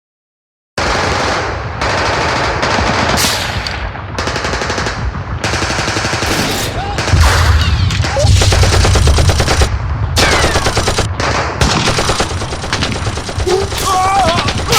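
Dense machine-gun and rifle fire: rapid, overlapping bursts of shots that start abruptly about a second in and continue without a break.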